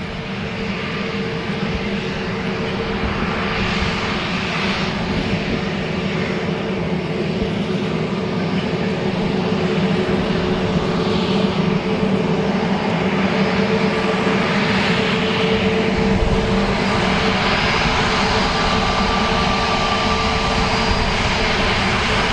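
Aircraft engines running with a steady hum under a broad rushing noise, growing louder over the first half, then holding steady.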